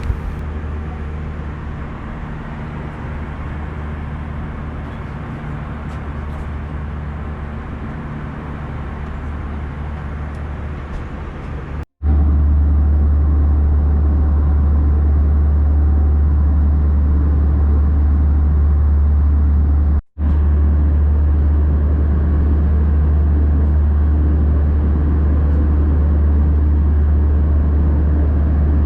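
Steady airliner cabin noise from an Airbus A320 in flight, a continuous rumble and rush of air. About twelve seconds in it cuts off abruptly and comes back as a much louder, deeper rumble. It cuts out briefly again later.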